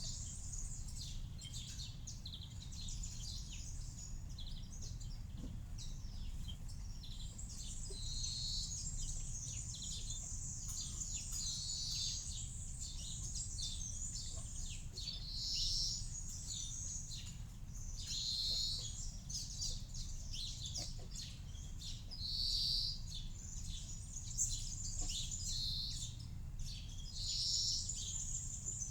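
Small birds chirping and calling, with one short call repeating every few seconds, over a steady low rumble.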